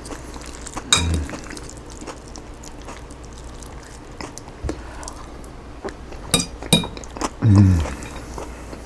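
An eating utensil clinking against a dish while salad is eaten: one clink about a second in and a quick few more about six and a half seconds in. A short, low, falling hum from the eater comes near the end.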